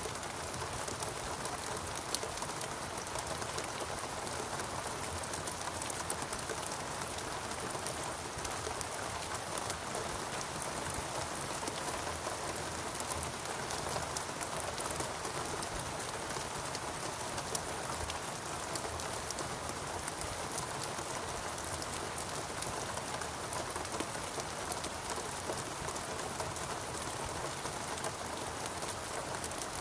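Steady, even rainfall, with many individual drop hits sounding throughout.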